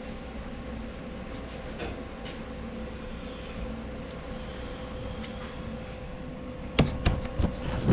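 Steady low hum with a faint high steady tone, then a quick cluster of loud knocks and clanks about seven seconds in, as the four-wheeler is handled.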